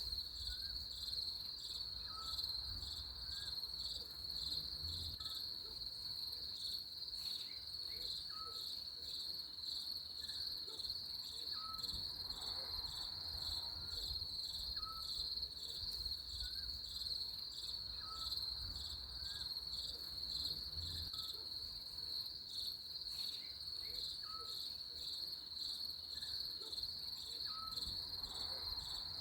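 Steady chorus of crickets, a continuous high trill that does not let up. Below it, a short faint chirp recurs roughly once a second.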